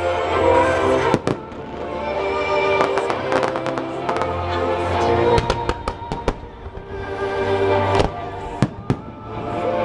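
Fireworks bursting with sharp bangs and crackling, over show music played through loudspeakers. The bangs come in clusters: one about a second in, a quick run around five to six seconds in, and a few more near the end.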